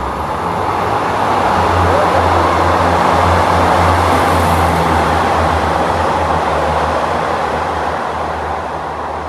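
Diesel railcar express train passing at speed, with a low engine drone and steady rushing wheel-on-rail noise. The sound builds to its loudest about three to four seconds in, then slowly fades as the train goes by.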